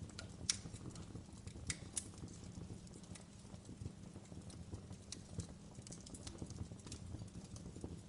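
Wood fire crackling: irregular sharp pops and snaps over a low steady rumble, with the loudest pops about half a second and two seconds in.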